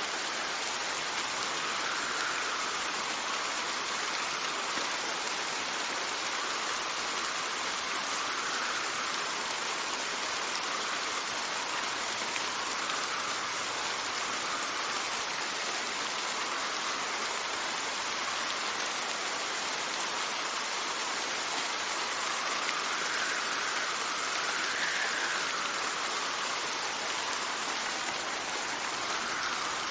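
Steady rain falling, with wind that swells and eases every few seconds.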